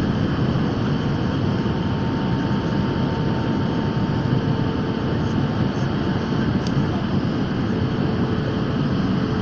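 Airplane cabin noise in flight: a steady, even rush of engine and airflow noise, strongest in the low range, with a faint steady hum under it.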